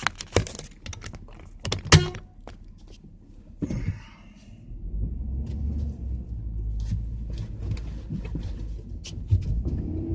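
Several sharp knocks and clunks in the first couple of seconds, then a vehicle engine starts running about four to five seconds in and keeps up a steady low rumble.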